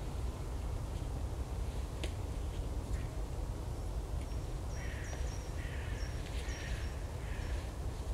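A bird gives four harsh calls in quick succession from about five seconds in, over a steady low rumble. Two light clicks come earlier.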